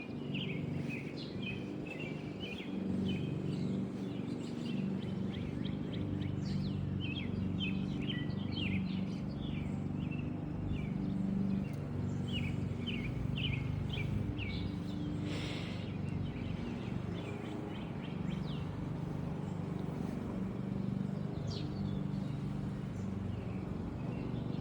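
Small birds chirping and singing in short repeated phrases, over a steady low mechanical hum.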